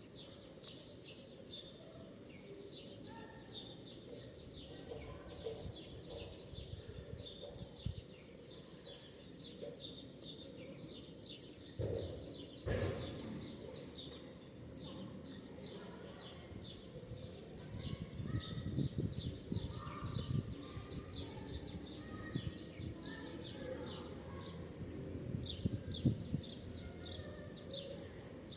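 A flock of small birds chirping continuously in many short, overlapping calls. A sharp knock comes about twelve seconds in, and there are low rustling thumps later on.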